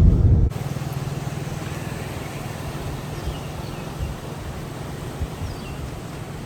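A vehicle engine running steadily with road noise, and a few faint bird chirps above it. A louder low rumble cuts off suddenly about half a second in.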